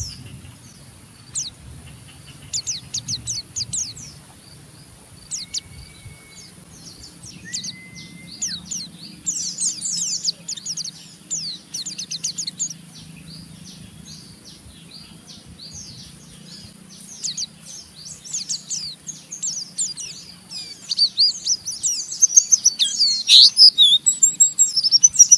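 White-eyes (pleci) giving ngeriwik song: bouts of rapid, high, rough twittering chirps. The bouts grow denser and louder near the end. Two short level whistles come early on.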